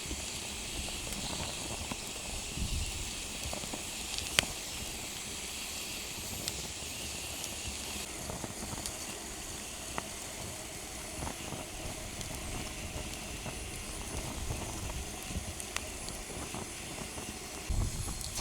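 Steady hissing and sizzling from tsubu whelks grilling in their shells on a grate over a wood campfire, with a few sharp crackles from the fire.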